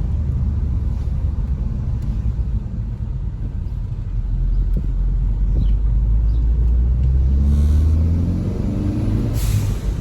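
2014 Hyundai Veloster Turbo's 1.6-litre turbocharged four-cylinder engine running while driving, a steady low rumble. About six and a half seconds in it accelerates, the engine note rising for about three seconds, followed by a short hiss. It pulls without the misfire that new ignition coils seem to have cured.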